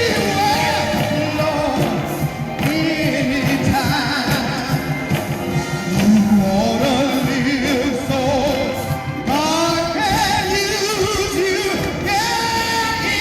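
A worship song sung with instrumental accompaniment, the voices holding wavering melody lines.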